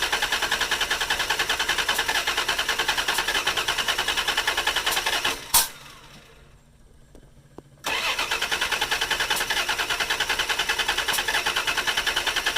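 1988 Dodge Dakota's 3.9-litre V6 cranking on the starter in an even, rhythmic chug without catching. It cranks in two long attempts, each cut off with a click, with a pause of about two seconds between them: a no-start.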